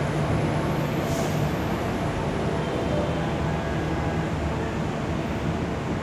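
A train running, a steady rumble with a low engine hum that fades about a second and a half in.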